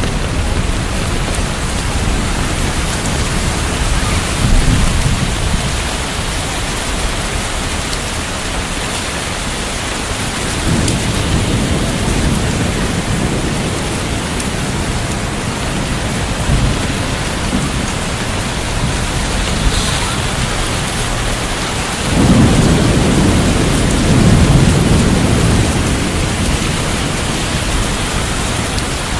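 Heavy rain falling steadily, with low rolls of thunder: one about ten seconds in and a louder, longer rumble a little over twenty seconds in that lasts a few seconds.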